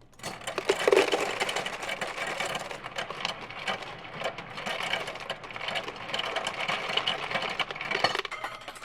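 Ice dispenser dropping ice cubes into a cup: a dense, rattling clatter that starts abruptly and stops near the end.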